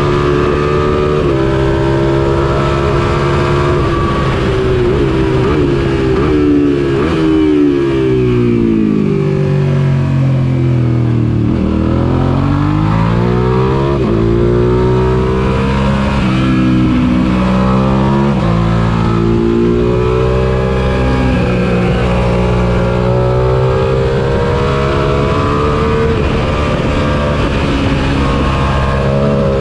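Suzuki SV650 race bike's 645cc V-twin engine heard onboard at race pace. It runs at high revs, then the revs fall over several seconds as the bike slows and changes down to a low point about twelve seconds in, then climb again with upshifts and hold high and steady to the end.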